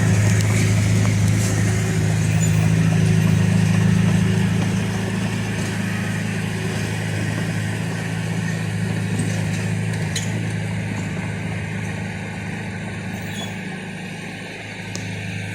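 Diesel engine of heavy earthmoving equipment running steadily at a low, even pitch, slowly getting quieter after about four seconds. A few faint clicks come near the middle.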